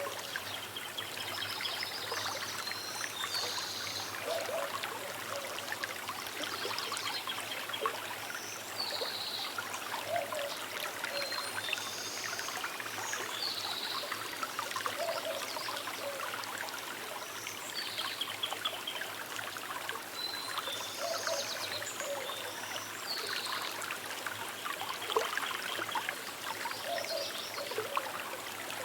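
Small river trickling and burbling steadily, with birds calling in short phrases every few seconds.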